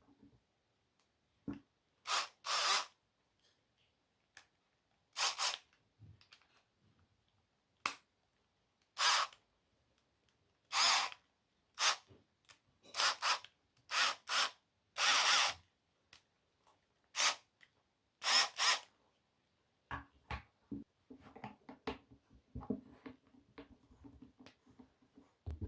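Makita BTD140 cordless impact driver run in about a dozen short trigger bursts, each under a second long. Near the end come quieter clicks and handling sounds.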